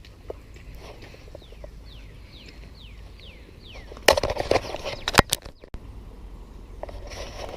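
A bird calling a quick series of short down-slurred whistles, about three a second, near a creek. About four seconds in, a loud burst of clattering and sharp knocks, then quieter outdoor background.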